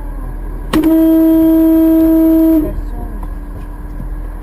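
Car horn sounding one steady blast of about two seconds, starting about a second in, over steady road noise.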